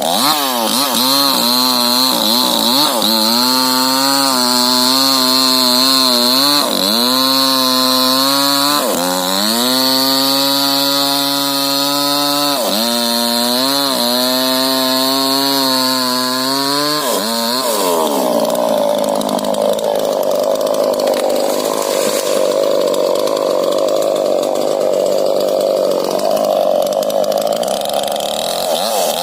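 Two-stroke chainsaw running hard, cutting rubber tree wood, its engine pitch sagging and recovering several times in the first half. After about 18 seconds the clear engine tone gives way to a rougher, steadier noise as the saw keeps running.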